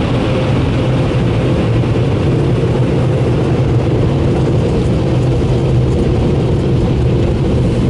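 Dryer blowers of a Mark VII AquaJet GTO-700 touchless car wash running steadily on the drying pass: a loud, even rush of air over a low hum.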